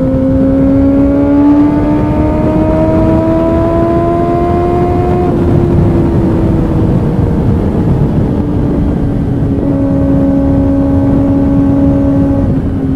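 Kawasaki ZX-6R's inline-four engine pulling hard, its pitch rising steadily for about five seconds, then easing off and holding a steady cruise. A strong, low, steady rushing noise lies under the engine throughout.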